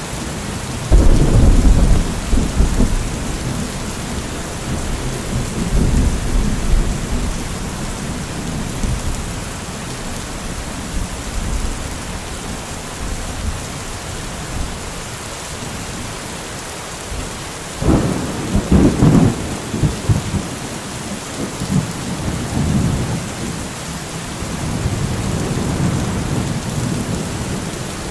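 Steady rain hissing through a thunderstorm, with thunder rumbling several times. The two loudest rolls break in suddenly about a second in and about eighteen seconds in.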